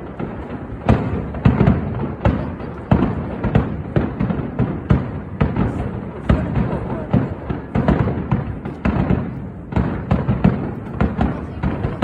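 Aerial fireworks display: shells bursting one after another, several sharp bangs a second overlapping with a continuous low rumble.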